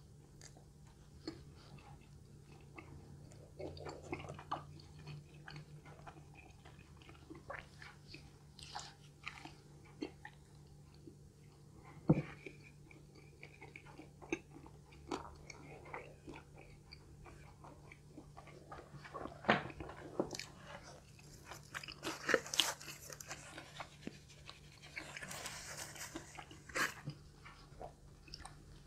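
Close-miked chewing and crunching of crispy fried food, a run of small wet clicks and crunches, with one sharp crunch standing out about twelve seconds in and louder stretches of crunching about three-quarters of the way through.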